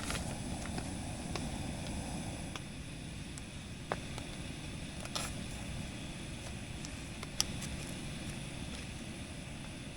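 Steady low rumbling noise with scattered light clicks and two sharper ticks, about four and seven and a half seconds in.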